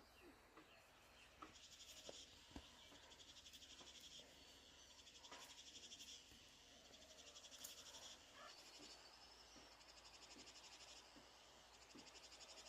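Faint insects trilling in a rapid, pulsing high-pitched chorus that stops and starts, with a few soft clicks.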